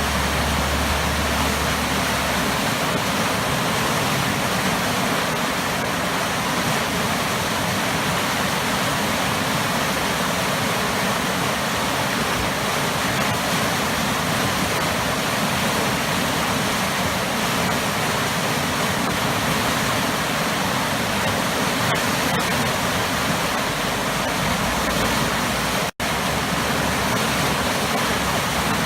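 Waterfall pouring into big, powerful churning water: a steady, loud rush that cuts out for a split second near the end.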